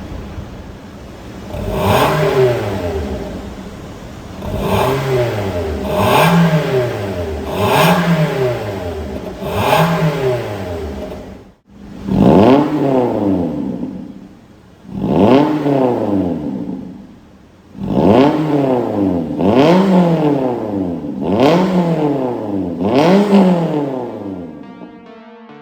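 Toyota Corolla Altis E170's 1.8-litre 2ZR-FE four-cylinder revved again and again through an MS-R valved aftermarket muffler: about twelve quick blips, each rising and falling in pitch. A short break comes about eleven seconds in, between a first set of five and a second set of seven.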